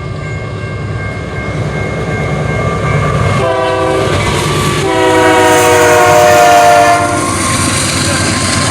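Train horn sounding for a road crossing: a short blast about three and a half seconds in, then a longer, louder blast, over the steady rumble of the passing train's wheels on the rails.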